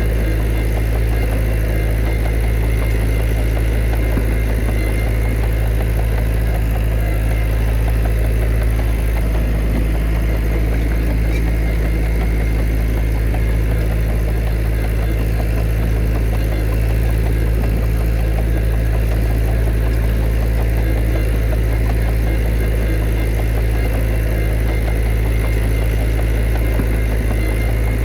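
Heavy diesel engine of earthmoving machinery running steadily, a strong low hum that holds an even pitch and level without revving.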